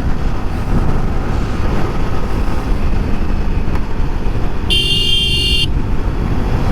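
Motorcycle riding noise: steady engine and road rumble with wind buffeting the microphone. About five seconds in, a horn sounds once for about a second.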